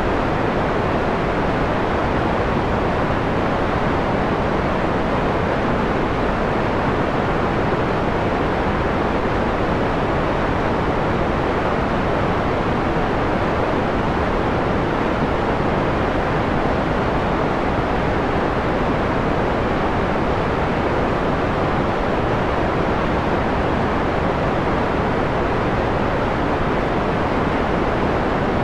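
Steady white noise filtered to a mellow, dulled quality: an even rushing hiss with most of its treble rolled off.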